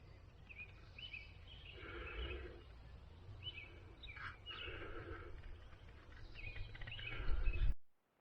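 Songbirds chirping in short phrases, repeated several times over a low rumble that grows louder near the end. The sound cuts off abruptly just before the end.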